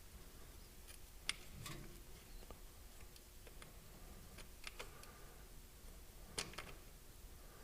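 Faint, scattered light clicks and taps of hand tools and small metal parts being handled during repair work, a few irregular clicks with quiet between.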